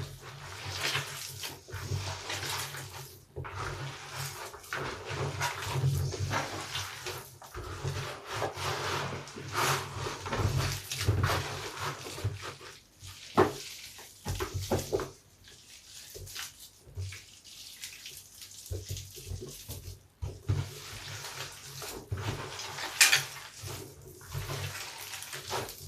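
A large bath sponge full of soap lather being squeezed and kneaded by hand with scraps of soap: irregular wet squelching and crackling of foam, with a sharper squish near the end.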